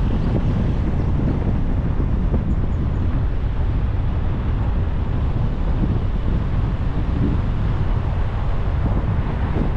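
Car driving at steady speed: constant low rumble of road and wind noise, with wind buffeting the microphone.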